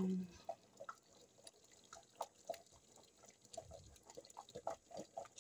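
Thick gizzard-and-potato stew simmering in a pot, with faint, irregular soft pops of bursting bubbles. A short hum ends just at the start.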